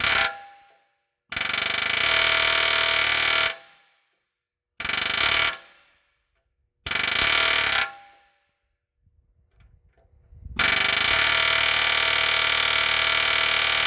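Pneumatic air hammer rattling against a steel frame rivet on an M35A2 truck frame, in five bursts of rapid hammering with pauses between them; the last burst is the longest. The rivet is stubborn and is not driving out.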